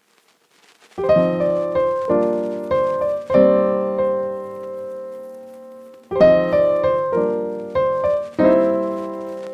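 Background piano music: a short phrase of struck chords that fade away, starting about a second in, with one long held chord in the middle.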